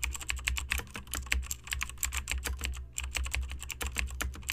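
Typing on a computer keyboard: a fast, uneven run of key clicks, several a second.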